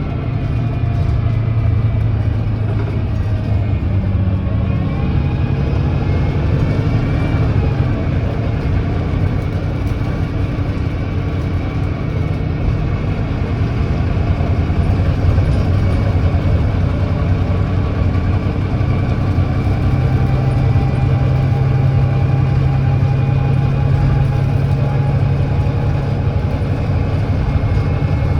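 Volvo D9B 9.3-litre six-cylinder diesel of a Volvo B9TL double-decker bus pulling hard uphill under kickdown, its ZF Ecolife automatic gearbox changing from fourth to fifth partway through, with the engine pitch dropping and then building again. The bus has an exhaust leak.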